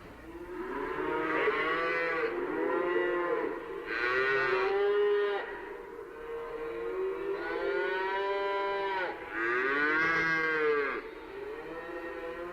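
Cattle mooing: about five long calls in a row, each rising and then falling in pitch, with little pause between them.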